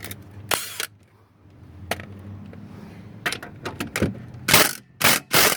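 Impact wrench fired in several short bursts of hammering, failing to break the fastener loose: it is not strong enough for it.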